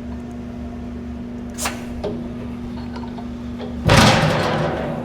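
Rottler F10XS CNC boring and surfacing machine humming steadily during a manual tool change. There is a sharp click a little under two seconds in. About four seconds in comes a loud burst of noise lasting about a second and fading away.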